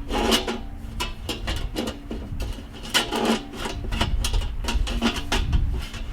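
Sheet-metal parts of a Weber kettle grill's ash catcher clanking and scraping as it is fitted under the bowl: a string of knocks, some ringing briefly, with rubbing in between.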